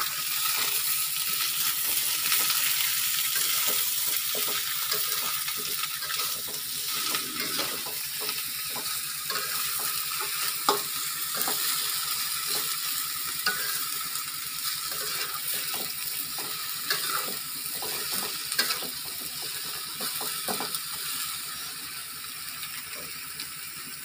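Bitter gourd frying in oil in a metal wok, a steady sizzle broken by scattered clinks and scrapes of the spatula stirring it. The sizzle slowly grows quieter.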